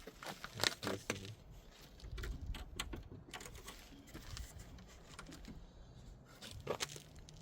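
Scattered clicks and knocks of hands working loose a plastic part in a car's engine bay, irregular, with a cluster of sharper clicks about a second in and a few more near the end.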